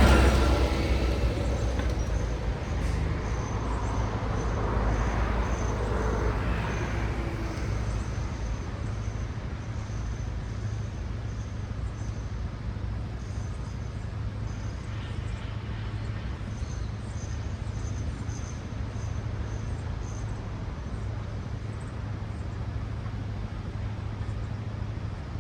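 Road traffic: a car passes close at the start, fading over a couple of seconds, another passes a few seconds in with a falling pitch, then a steady low traffic rumble continues.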